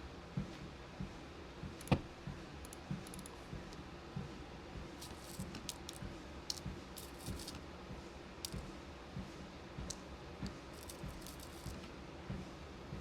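Footfalls on a walking pad treadmill, about two soft thuds a second, with light clicking and rattling of beads being sorted by hand; one sharper click about two seconds in.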